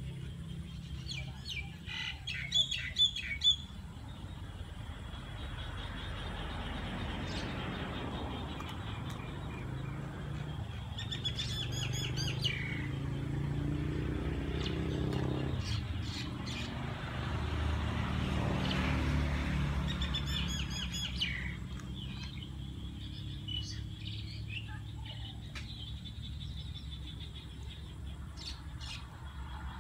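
Birds calling in short bursts of rapid chattering calls, several times, the loudest about three seconds in, over a steady low rumble.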